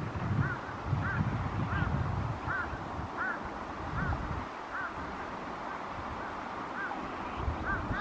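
A bird calling over and over in a steady series of short notes, each rising and falling in pitch, about one and a half a second, over a low rumble.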